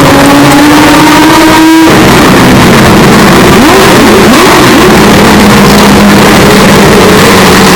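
Hyundai Elantra N's turbocharged 2.0-litre four-cylinder accelerating with rising pitch, cutting off suddenly about two seconds in as for a gear change, then a few brief swoops in pitch and a steady lower drone. The audio is boosted to near full scale and heavily distorted.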